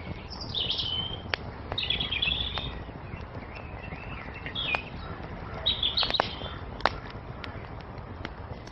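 Songbirds singing in several short chirping phrases over the crackle of a burning wood fire, with sharp pops scattered through, the loudest a little before the end, and a steady low rumble beneath.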